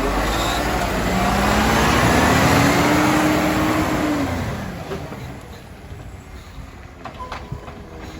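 Iveco Stralis garbage truck's engine rising in pitch and getting louder for about three seconds, then dropping and fading away.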